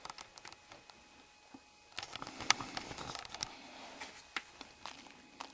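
Footsteps crunching and clicking over icy, rocky ground, an uneven scatter of small steps that is busiest between about two and three and a half seconds in.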